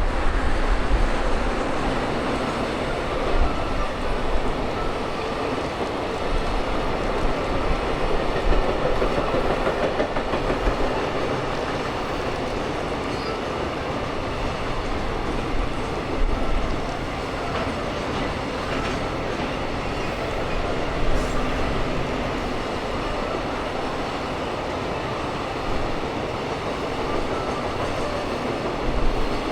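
A train running through on the rails, a steady continuous noise strong in the low end, with a few brief louder knocks.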